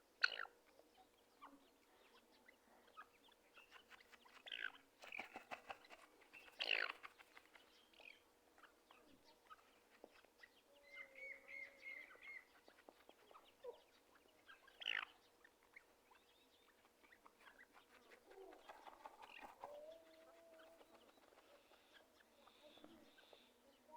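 Teetar partridge calling in short, sharp notes spaced irregularly, with a few quieter warbling note series in between.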